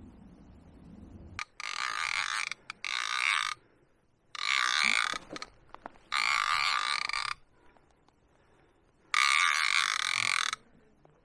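Centrepin reel's ratchet check buzzing in five bursts of a second or two each as line is pulled off the spool: a fish taking the bait and running.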